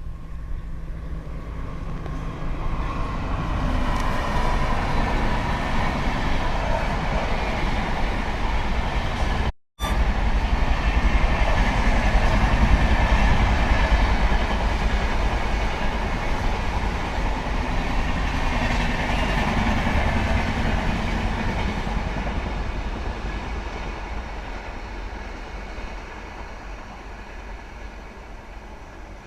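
A train passing at speed: a steady rush of wheels on rails that builds over the first few seconds, holds, then fades away toward the end. The sound cuts out briefly about ten seconds in.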